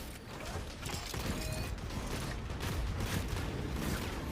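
Mechanical clanking and creaking sound effects from the animated episode's soundtrack, over a steady low rumble.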